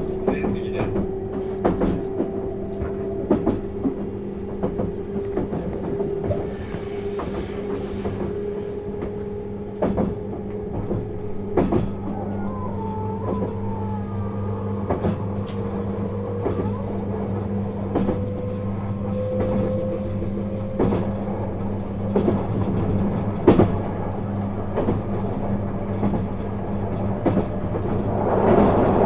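Inside a 651 series electric train running on the line. A whine rises slowly in pitch over about twenty seconds as the train gathers speed, over a steady low hum, with scattered clicks from the wheels and track. The noise swells near the end.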